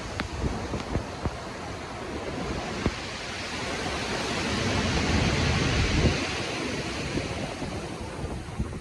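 Stormy sea: ocean waves surging and breaking, with wind gusting across the microphone. The rush builds to a peak about six seconds in, then eases.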